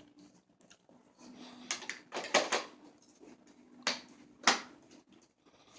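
Hard plastic clicks and knocks from parts of a Dyson DC07 upright vacuum being handled and fitted: a few sharp, separate clacks about two seconds in, and two more near the end.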